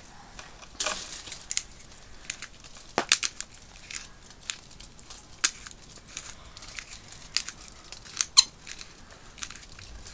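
Aluminium foil crinkling and rustling in irregular short crackles and clicks as food is handled on it.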